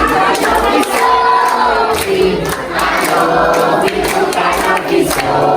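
A group of people singing together, many voices overlapping, with a few short sharp clicks among them.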